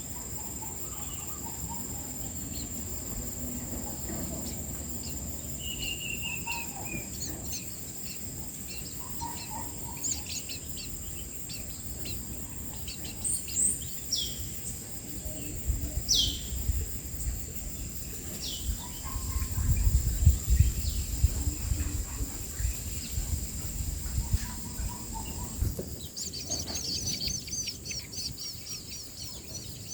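Wild birds giving scattered short chirps and falling whistles over a steady high insect drone, then a rapid run of high chirps near the end. Loud low rumbling bursts come and go in the second half.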